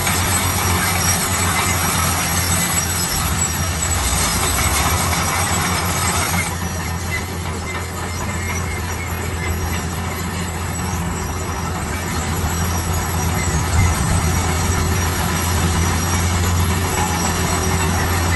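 Heavy road-construction machine running: a steady low engine drone under a loud, high-pitched grinding noise that drops off about six seconds in and slowly returns.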